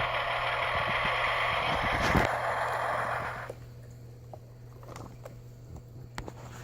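Battery-powered toy truck's electronic sound effect set off by its button, a noisy engine-like sound through a small tinny speaker that cuts off about three and a half seconds in. Light clicks and clatter of the plastic toy being handled follow.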